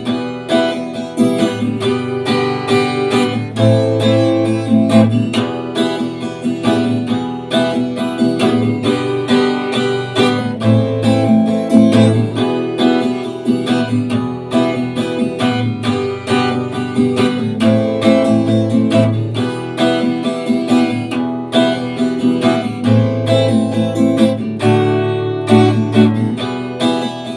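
Instrumental music led by acoustic guitar, strummed and plucked in a steady rhythm, with a bass line beneath.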